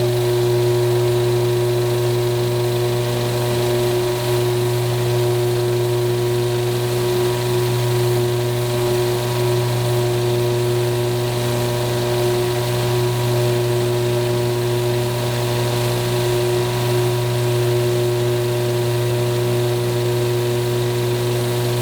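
Peugeot 408 THP's 1.6 turbo four-cylinder idling in gear, together with an automatic transmission fluid exchange machine pumping. It is a steady, even drone with several constant tones over it, pumping contaminated fluid out and new fluid in.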